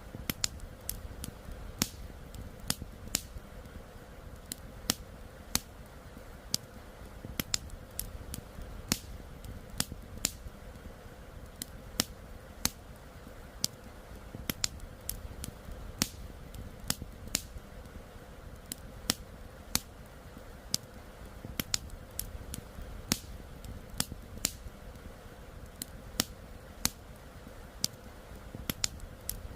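Wood campfire crackling, with sharp, irregular pops several times a second over the steady low rush of a flowing river.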